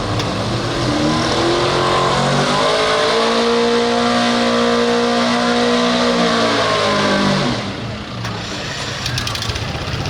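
Super Street class pulling truck's engine at full throttle under load: its pitch climbs over the first few seconds, holds high, then sinks as the truck bogs down, and the engine note drops away about eight seconds in.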